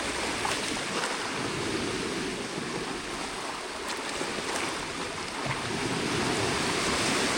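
Sea waves washing against a rocky shore: a steady rush of surf, growing slightly louder near the end, with a few faint ticks.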